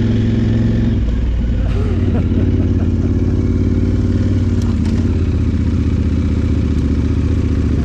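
Adventure motorcycle's parallel-twin engine running steadily while riding, its note shifting slightly about a second in.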